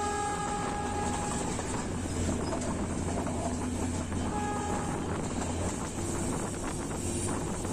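Class S13 diesel multiple unit running with a steady low rumble. Its horn sounds for the first second and a half, and again briefly a little after four seconds in.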